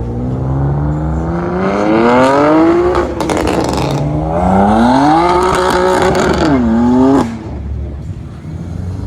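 A car engine revving up hard twice, its pitch climbing each time, with a burst of sharp crackling between the two pulls. It cuts off suddenly about seven seconds in.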